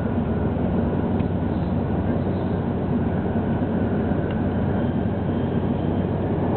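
Steady running noise inside the cabin of a 700 Series Shinkansen travelling at speed: an even, unbroken low rumble of the train on the track.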